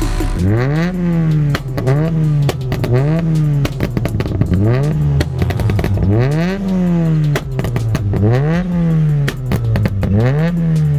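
Rally car engine revving up and easing off again and again as the car is driven through a slalom course, its pitch rising and falling every second or two. Sharp clicks and clatter run over it.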